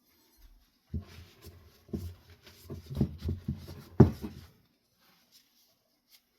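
Hand cleaning of a wooden ceiling-fan blade: a run of rubbing and handling strokes lasting about three and a half seconds, with one sharper knock about four seconds in.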